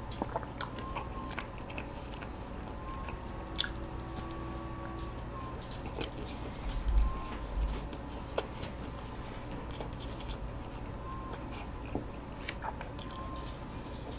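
Close-miked chewing of hodu-gwaja, Korean walnut cakes: mouth sounds and small clicks over a steady faint hum, with a low thump about seven seconds in.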